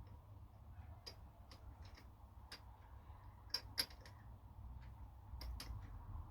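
A few light clicks and taps at uneven intervals, the two loudest close together about three and a half seconds in, over a low steady hum.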